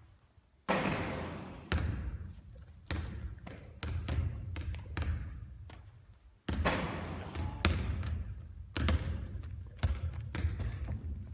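Basketball bouncing during three-point shooting practice: a loud impact with a lingering echo a little under a second in, followed by a run of bounces slowing and fading, then a second loud impact about six seconds in followed by another run of bounces.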